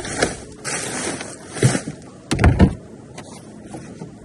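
Rummaging and handling of discarded items: rustling with a few knocks, the loudest a pair of knocks about two and a half seconds in.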